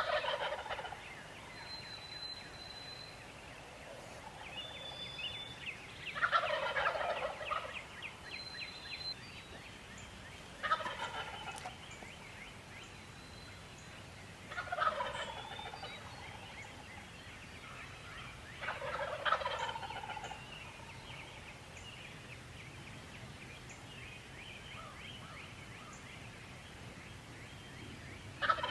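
Wild turkey gobbler gobbling: a series of rattling, falling gobbles, one every four to five seconds, with a longer gap before the last one near the end. Faint high whistled bird notes come in between.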